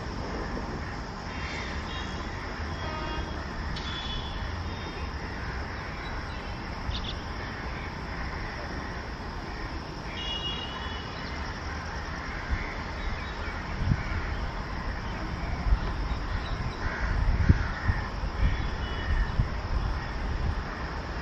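Approaching electric locomotive-hauled train: a low rumble that grows louder over the second half, with heavy thuds of wheels over rail joints as it nears. Crows caw in the background.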